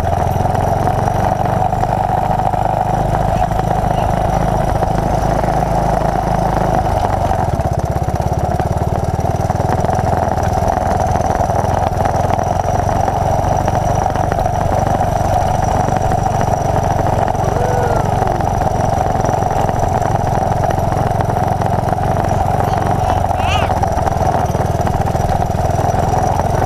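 A 1981 Honda XL185's single-cylinder four-stroke engine running steadily, its low note shifting about seven seconds in.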